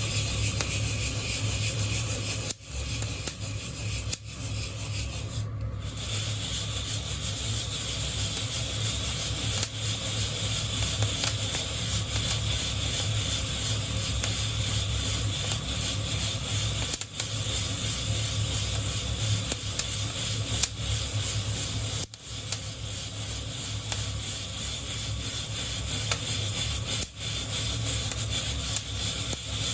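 Coffee beans being shaken in a hand-held wire-mesh roasting net, the beans rubbing and scraping against the mesh in a steady rasp. The sound breaks off briefly a few times.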